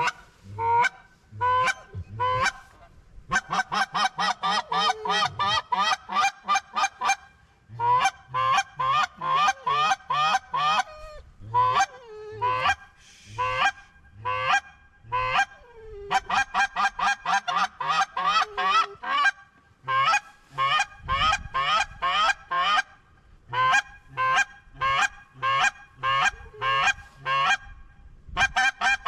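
Hand-blown goose calls imitating Canada geese: rapid runs of honks and clucks, several calls going at once, broken by short pauses. The calling is meant to pull circling birds in to land.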